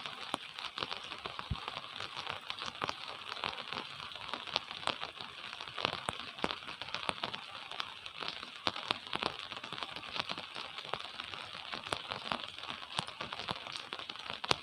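Gentle rain falling, a steady patter of many small drop impacts with no break.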